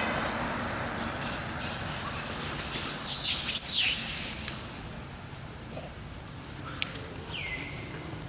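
Short, very high-pitched animal squeaks and chirps, clustered about three to four seconds in, with one falling call near the end, over a low steady outdoor background.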